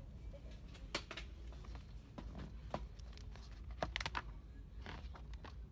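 Dollar-store ambience: a steady low hum with scattered light clicks and rustles, about five of them, the loudest near four seconds in.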